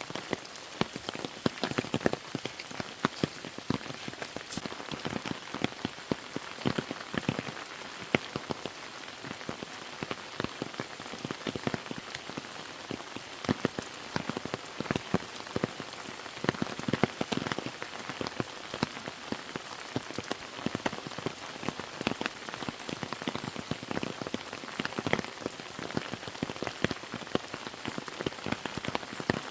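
Steady rain falling, with many separate drops striking surfaces close by as quick, sharp ticks over an even hiss.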